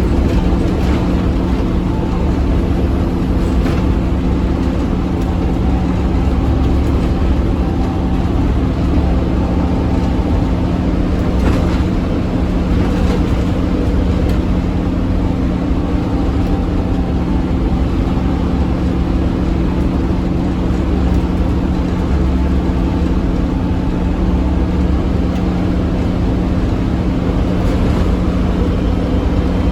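Scania OmniCity double-decker bus's diesel engine running steadily under way, a constant drone with a low rumble and a few light knocks.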